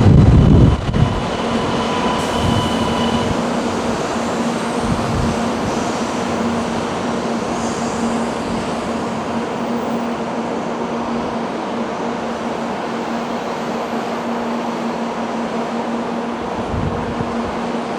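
700 series Shinkansen train at the platform as it arrives, with steady rail noise and a constant low hum. A brief low rumble comes at the very start, and a higher whine runs through the first few seconds.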